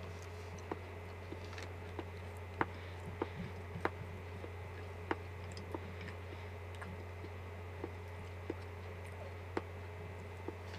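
A man eating potato with chopsticks close to the microphone: quiet chewing and mouth sounds with scattered sharp little clicks, about one a second, of chopsticks against the bowl and teeth. A steady low hum runs underneath.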